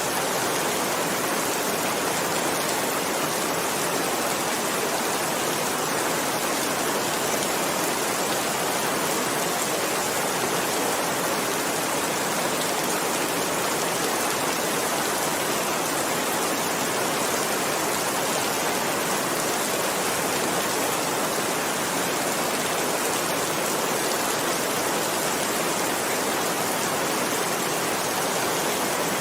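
Heavy rain falling in a steady, even hiss, with no thunder or gusts.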